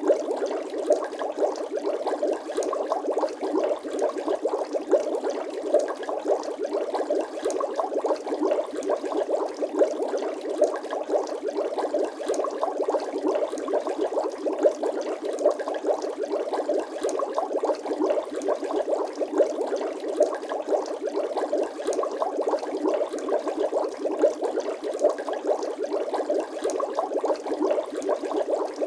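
Bubbling water sound effect: a dense, steady stream of small bubble pops.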